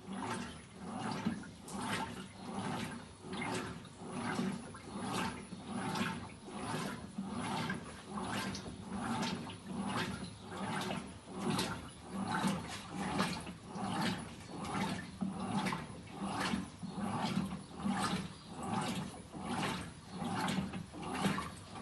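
Electrolux 16 kg washing machine agitating a load: water sloshing in even back-and-forth strokes, a little more than one per second, over the steady hum of the motor.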